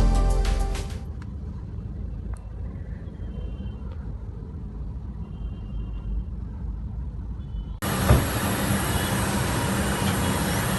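Car running: a low rumble with a few faint high beeps, then a sudden cut about eight seconds in to much louder, hissy driving noise.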